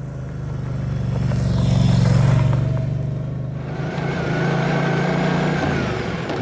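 Moto Guzzi Stelvio's transverse V-twin engine running steadily under way, growing louder to a peak about two seconds in, dropping briefly about a second and a half later, then holding steady.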